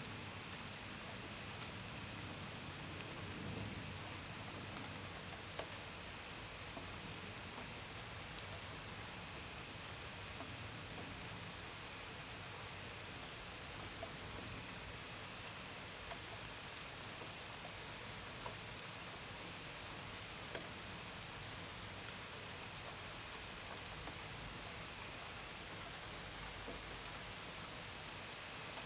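Steady rain with scattered drops tapping sharply against a window and gutters. Crickets chirp continuously over it in a high, pulsing trill.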